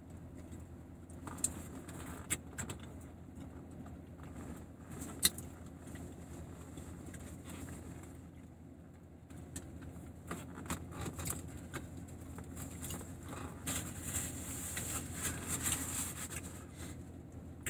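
A person chewing a mouthful of a soft tortilla steak wrap, with scattered small wet mouth clicks and smacks that grow busier in the second half, over a steady low hum.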